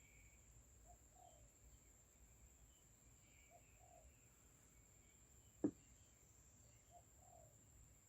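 Quiet outdoor ambience: a bird's low two-part call repeats about every three seconds over faint high chirping. A single sharp knock comes about two-thirds of the way through.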